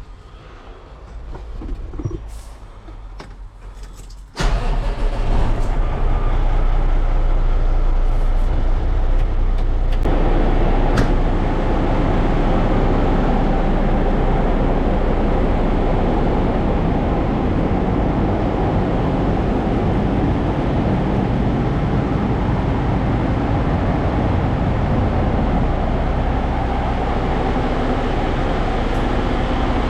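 Dump truck's diesel engine, which comes in suddenly about four seconds in and then runs steadily as a heavy low rumble, growing louder about ten seconds in.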